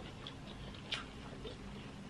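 Faint mouth sounds of a person chewing food, with a few soft clicks and one sharper click about a second in.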